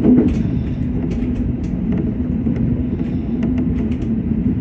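Shinano Railway SR1 series electric train heard from the front of the car: a steady low hum with a few light clicks.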